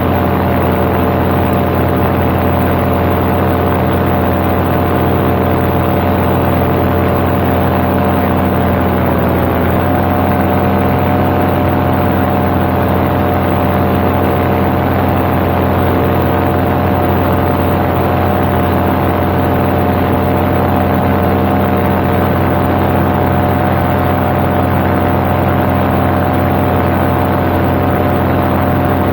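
Paramotor engine and propeller running steadily in flight. About nine seconds in, the engine speed dips briefly, then settles slightly higher.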